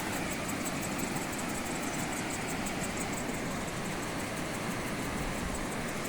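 Steady outdoor rushing noise on a forest trail, with a fast, evenly repeating high-pitched pulsing over it.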